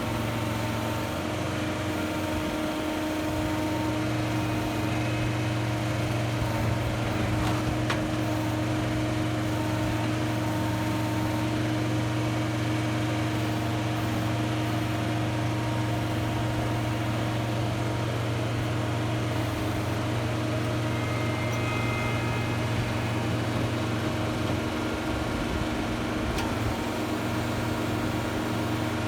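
Engine of a heavy machine running steadily at constant speed, without revving, as it lifts a roof section during demolition.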